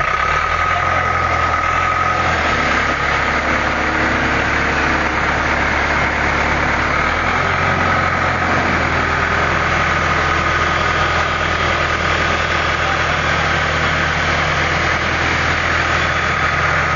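Vehicle engine running steadily, its pitch shifting slightly about two seconds in and again about seven seconds in.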